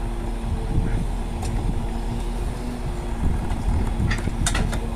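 Crane truck's engine running steadily at a constant speed, with a few sharp clicks near the end.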